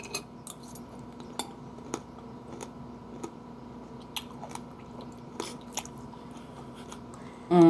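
A mouthful of pomegranate seeds and fruit being chewed close to the microphone, with irregular small crunches and clicks as the seeds are bitten.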